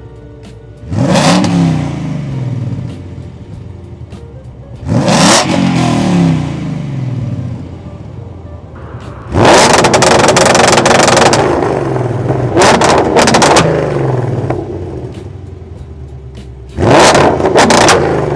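2016 Ford Mustang with a Valvetronic Designs aftermarket exhaust, revved four times from idle. Each rev rises sharply and falls back; the third is held longer and breaks into a burst of sharp crackles as it drops back.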